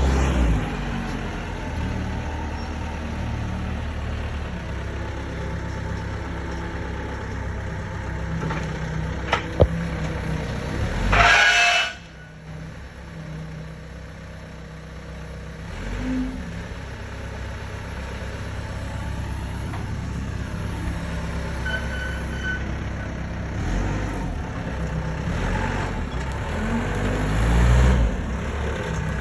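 Vehicle engine running steadily. About eleven seconds in comes a loud, second-long hiss of air, after which the engine sound is quieter for a while.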